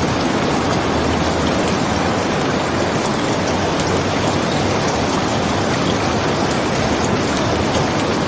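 Steady heavy rain, an even unbroken hiss, with a few faint scattered ticks.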